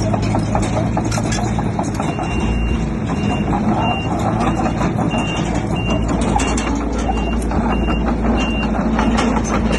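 A heavy machine's reversing alarm beeping about twice a second, starting about two seconds in and stopping near the end, over a diesel engine running under load and steady clanking.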